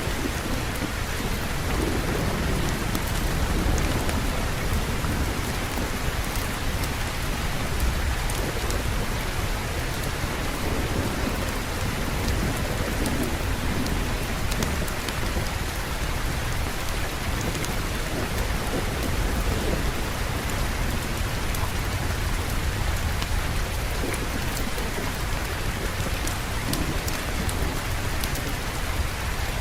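Steady heavy rain with a low, rolling rumble of thunder underneath, swelling slightly a few seconds in.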